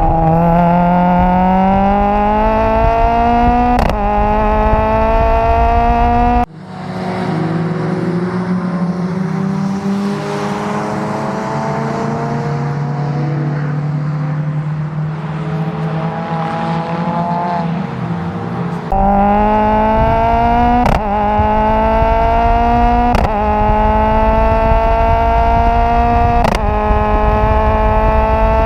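Renault Clio Cup race car's engine and exhaust, close up, pulling under full throttle with pitch climbing and brief breaks at gear changes. About six seconds in it comes off the throttle for a long stretch of lighter, lower-pitched running. It is back on the power from about 19 seconds, rising again with three more quick shifts.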